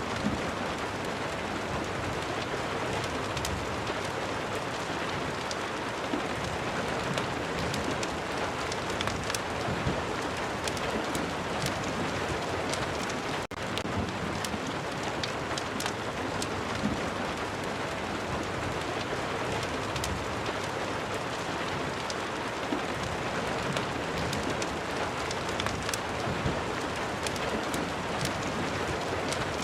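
Steady rain falling, mixed with the crackle of a fireplace: an even hiss dotted with many small sharp clicks, with a brief drop in level about thirteen seconds in.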